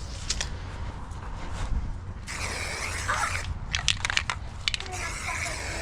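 Crunching and crackling of soil and sod being broken up, with a cluster of sharp snaps around the middle, over a steady low engine rumble.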